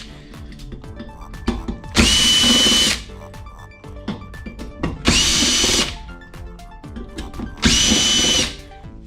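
Cordless drill-driver running in three short bursts of about a second each, its motor whine rising as it spins up, undoing screws to open a diesel air heater. Small clicks and knocks of screws and metal parts come between the bursts.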